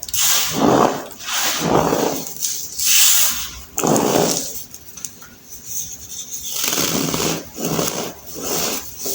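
Crunchy, squeaky crushing of packed baking soda, crumbled in repeated squeezes about once a second, with a short pause about halfway through.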